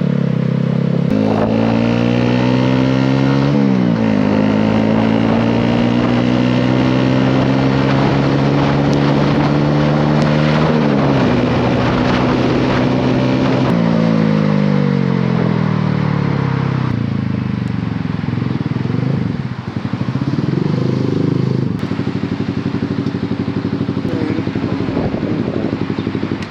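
Honda CB125R's single-cylinder 125 cc engine through a Leovince LV10 aftermarket exhaust, accelerating hard through the gears: the note climbs, drops at each upshift and climbs again. About two thirds of the way through it backs off and slows, then picks up briefly and runs steadily near the end.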